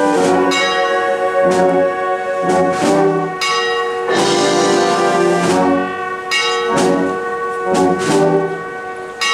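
Marching wind band (banda de música) playing a Holy Week procession march, with brass and woodwinds sounding sustained chords that change every second or so.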